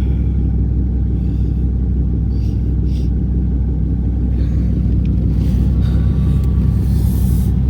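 Car engine idling steadily just after a cold start in freezing weather: a loud, even low rumble.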